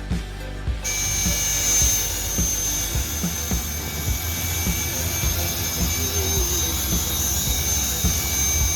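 Tarot 450 flybarless RC helicopter running on its brushless motor: a steady high whine over a low rotor rumble. The whine cuts back in about a second in and then holds.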